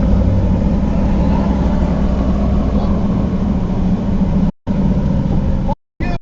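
Steady engine and road drone of a car driving. The sound drops out to silence briefly twice near the end at edit cuts.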